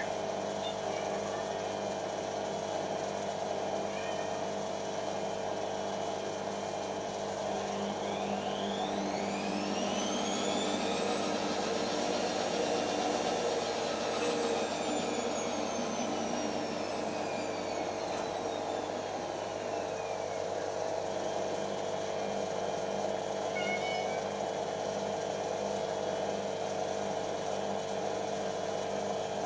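Creda Simplicity W120VW washing machine spinning with a steady running hum. From about eight seconds in, a high motor whine rises and then falls back down over roughly twelve seconds as the drum speeds up and slows. The motor is faulty, struggling to put power in smoothly.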